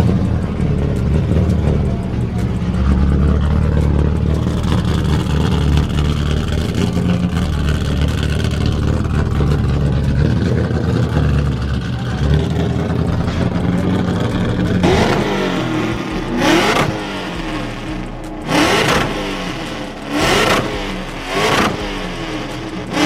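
A car engine held loud and steady at high revs, then, from about two-thirds of the way in, about five quick revs in a row, each rising and falling away.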